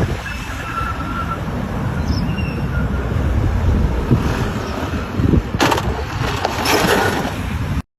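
Wind buffeting the microphone over the rumble of a moving vehicle, with two short louder rushes of noise late on.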